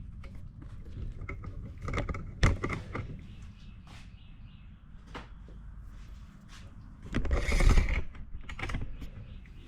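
Hand tools and the plastic housing of an inverter generator clicking, knocking and rattling as the casing is taken apart, with a sharp knock about two and a half seconds in and a louder scraping rustle about seven seconds in.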